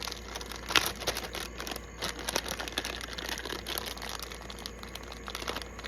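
A bag of Fritos corn chips crinkling and the chips rustling as they are tipped into a small bowl: an irregular run of crackles, the sharpest about a second in.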